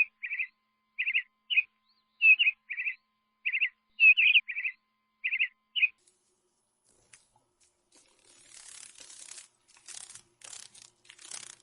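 A bird giving short, repeated chirps, about two a second for the first six seconds, then falling silent. Faint crackly rustling follows near the end.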